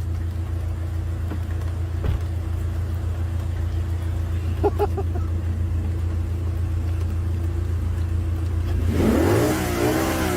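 Steady car engine and road drone, with an engine revving up near the end.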